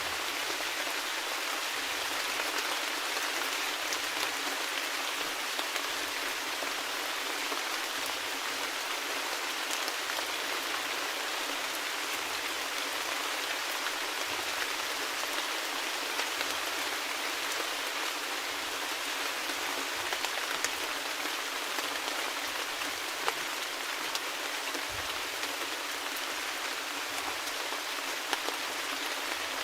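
Steady rain falling on a surface, an even hiss with scattered faint drop clicks.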